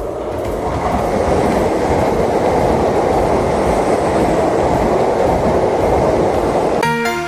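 A train running on the rails, a steady noise of wheels on track. Music comes in near the end.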